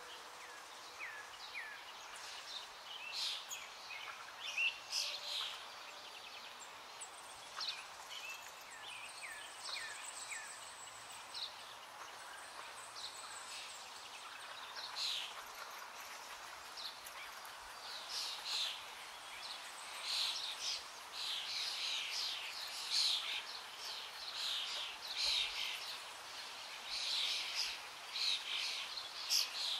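Birds chirping: many short, quick calls over a faint background hiss, busier in the second half.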